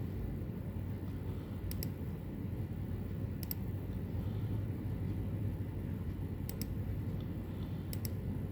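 Computer mouse button clicked four times, each a sharp double click of press and release, a second or two apart, paging through photos, over a steady low hum.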